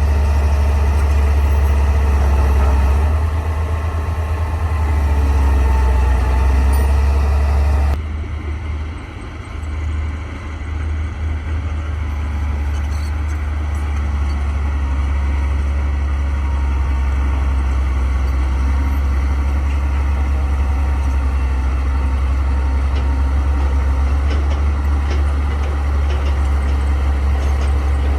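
Bulldozer's diesel engine running steadily with a heavy low drone; about eight seconds in the higher part of the sound drops away abruptly while the low engine drone carries on.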